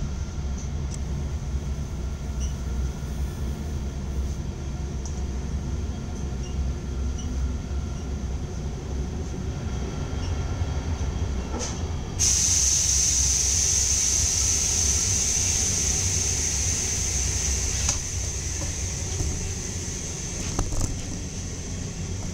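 Passenger train coach running, heard from inside the vestibule by the door: a steady low rumble. About twelve seconds in a loud hiss cuts in suddenly and eases off about six seconds later.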